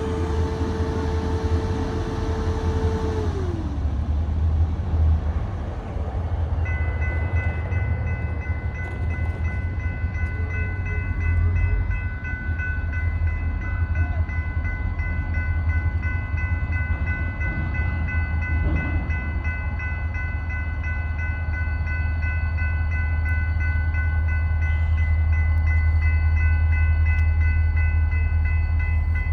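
EMD GP40-2 diesel-electric locomotives running in the yard, a heavy steady diesel rumble. For the first three seconds a steady tone sounds and then sags in pitch and dies away. From about seven seconds a steady high-pitched ringing tone joins the rumble.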